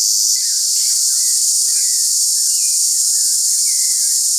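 Loud, steady, high-pitched chorus of tropical insects, with short chirping bird calls over it.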